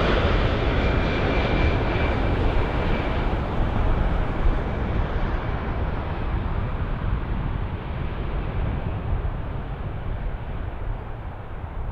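Jet engine noise of a landing Boeing 787-8 airliner, fading steadily, the higher hiss dying away first while a low rumble remains.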